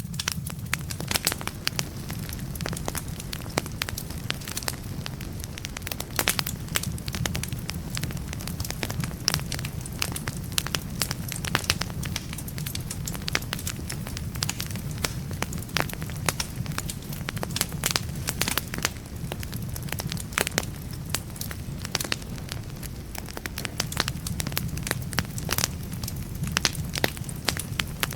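Wood fire crackling in a fireplace: frequent sharp pops and snaps from the burning logs over a steady low rumble.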